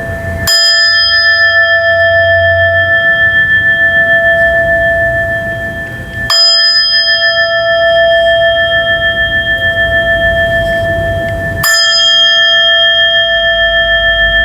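Buddhist bell struck three times, about five and a half seconds apart. Each strike rings on with several steady tones and a slow wavering beat.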